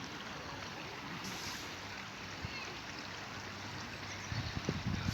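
Steady rush of running water, like a stream, with low rumbling bumps starting about four seconds in.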